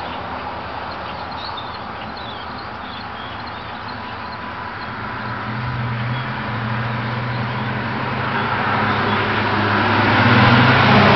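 1977 Chevrolet C10 pickup with a Flowmaster exhaust driving by, its engine note steady at first and then growing louder over the second half as the truck approaches.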